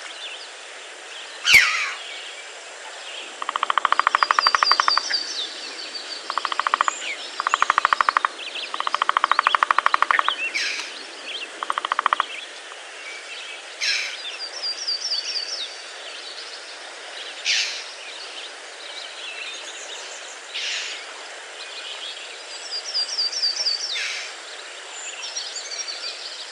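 Forest birds calling over a steady background hiss: a short phrase of quick, falling high notes repeated three times, and scattered sharp call notes. From a few seconds in until about halfway, a loud, rapid rattling trill comes in several bursts.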